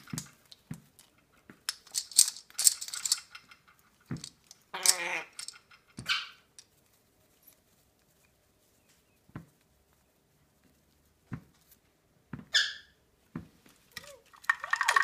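Cape parrot making a few short, separate harsh calls and squeaks, with scattered clicks and taps between them.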